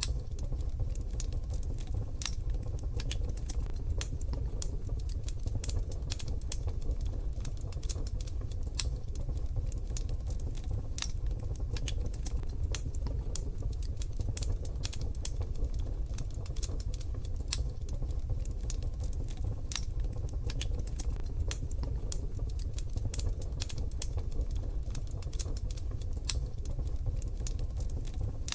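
Wood fire crackling steadily, with dense irregular pops and snaps over a constant low rumble of the burning fire.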